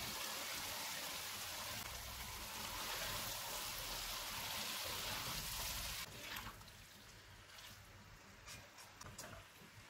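Chicken in onion-tomato masala sizzling in hot oil in a wok over a low flame, a steady hiss. About six seconds in it drops much quieter, with a few light clicks.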